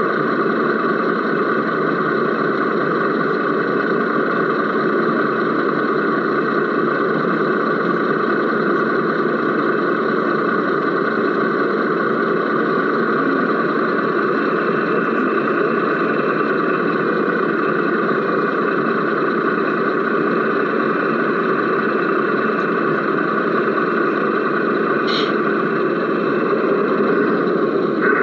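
A radio-controlled model truck running steadily, heard from inside its cab, an even hum with no deep bass. A thin higher whine joins about halfway through, and there is a single short click near the end.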